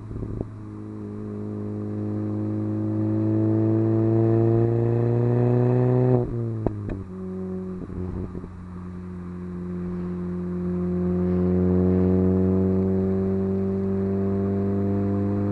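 Hartge MINI's engine through a Hayward & Scott exhaust, pulling steadily up through the revs for about six seconds. The revs drop suddenly with a couple of clicks as it changes gear, then it pulls up again and holds a steady note.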